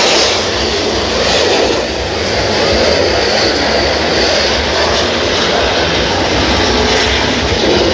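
Espadas, handmade bamboo-tube fireworks packed with gunpowder, burning and spewing sparks with a loud, steady, jet-like hiss.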